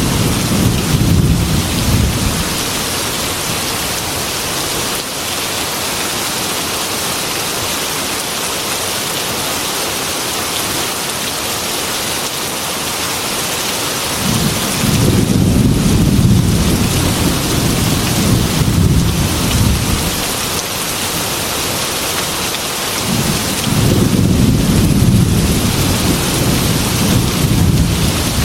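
Heavy rain falling steadily on a metal roof, with low rolling thunder rumbles. One rumble fades out a couple of seconds in, a long one builds about halfway through, and another comes near the end.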